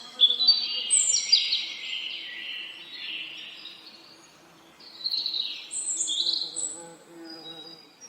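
Songbirds singing in two bursts of high, rapid chirps and trills, with a short lull between them, over a faint steady buzzing of bees.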